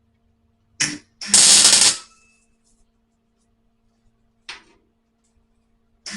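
Welder laying tack welds on sheet-steel patch panel: a short crackling burst of arc, under a second long, about a second in, and another starting right at the end.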